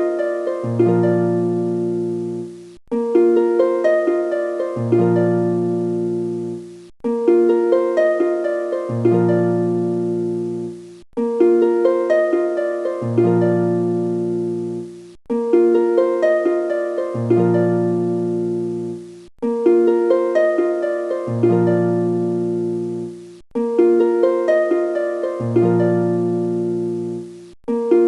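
Background music: a short plucked-string phrase with a low bass note under it, looped and starting over about every four seconds.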